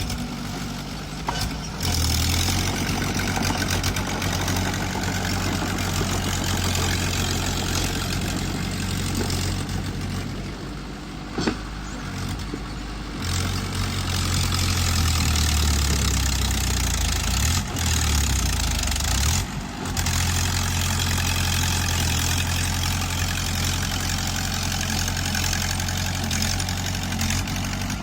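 Bulldozer's diesel engine working, a steady low engine note that eases off for a few seconds about ten seconds in, then runs harder again, dipping briefly twice a little later.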